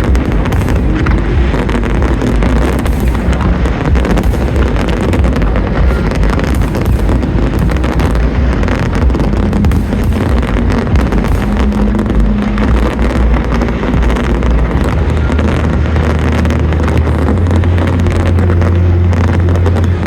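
Fireworks display going off in a dense, continuous barrage of bangs and crackling, with deep booms underneath. The show's music plays at the same time, its held bass notes coming through in the second half.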